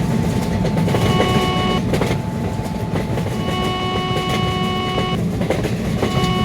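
Train passing at speed: a steady loud rumble and clatter of wheels on rail. A steady pitched tone sounds over it three times, the middle one held for nearly two seconds.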